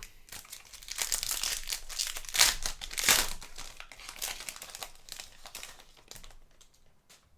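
Crinkling of the plastic wrapping of trading-card packs as the cards are handled and sorted, an irregular crackle that fades out near the end.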